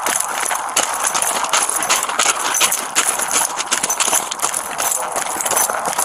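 Footsteps crunching on gravel, close to a police body-worn camera's microphone, as a series of quick irregular knocks over a steady rushing hiss.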